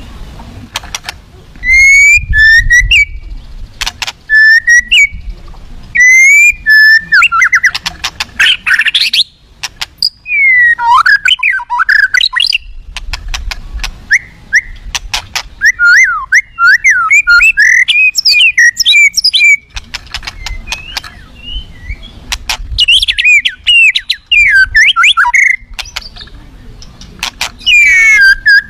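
White-rumped shama (murai batu) singing loudly in long runs of varied whistled phrases that glide up and down, mixed with fast chattering notes and sharp clicks.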